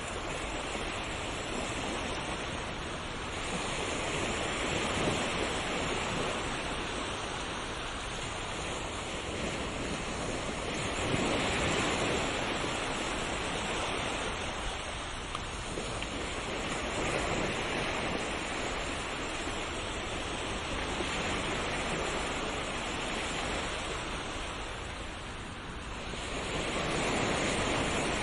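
Ocean waves breaking on a shore: a continuous wash of surf that swells and recedes every five or six seconds.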